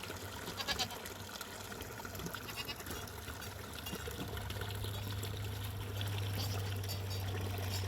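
Water trickling, with goats bleating now and then.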